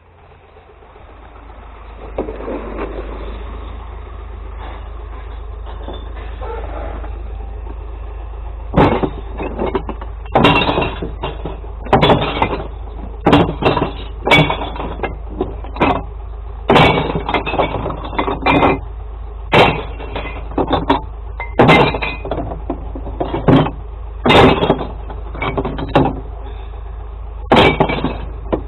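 Glass bottles smashing into a kerbside glass recycling truck's compartments one after another, about a crash every second or so from about nine seconds in, over the steady low hum of the truck's idling engine.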